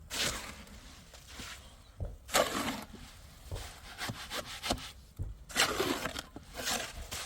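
Several separate scraping or rubbing strokes, each about half a second long and spaced irregularly, with quiet gaps between them.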